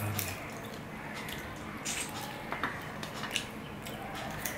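A man chewing and smacking on mouthfuls of rice and curry eaten by hand, with scattered short clicks.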